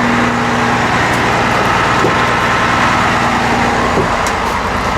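Hino 338 bucket truck's diesel engine running steadily at high idle with the PTO engaged to drive the boom hydraulics.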